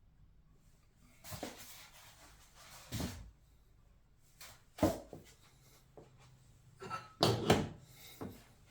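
Handling noises: a few separate light knocks and short rubbing sounds as a diecast metal model airliner is moved about and set down. The sharpest knock comes about five seconds in, and a louder cluster follows between seven and eight seconds in.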